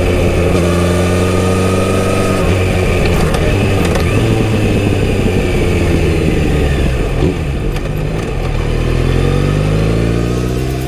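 Kawasaki Z900RS inline-four engine running through a full-system exhaust. Its pitch falls steadily as the bike slows off the throttle for the first several seconds, then rises as it accelerates again near the end.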